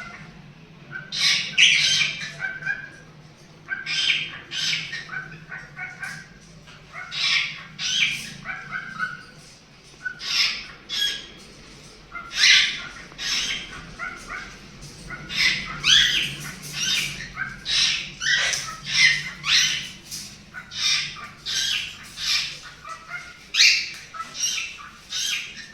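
Cockatiels calling: a run of short, high-pitched squawks and chirps, one every second or so.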